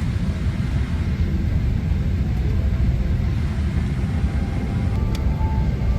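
Steady low rumble inside the passenger cabin of a Boeing 767-300 with its General Electric CF6 engines running, with a single faint click about five seconds in.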